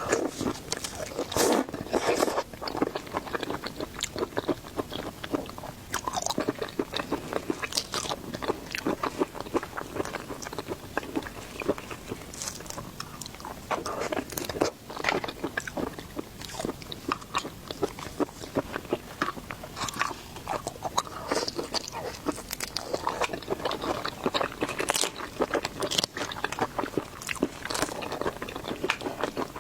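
A person eating seafood, biting, crunching and chewing in a dense, continuous run of crisp clicks and crackles.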